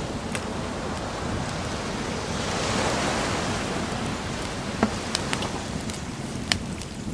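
An ocean wave washing in, swelling to its loudest about three seconds in and easing off, over the sharp pops of a wood bonfire crackling, several of them in the last couple of seconds.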